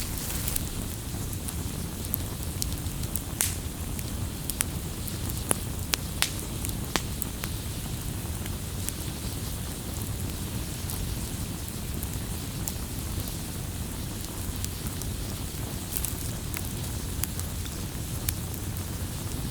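Wood fire crackling, with irregular sharp pops and snaps over a steady low rush of burning.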